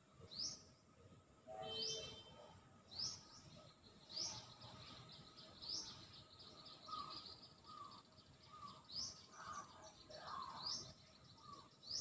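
Wild birds calling: one repeats a short, high, rising chirp about once every second or so, while lower call notes come in the second half.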